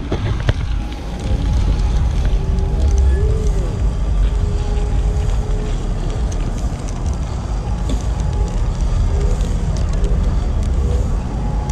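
Steady low rumble of wind and riding noise on the microphone of a moving bicycle, with faint music and voices in the background.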